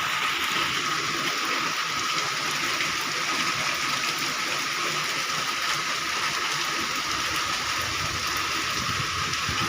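Steady heavy rain, an even hiss of falling water that holds at one level, with a thin steady high tone running through it.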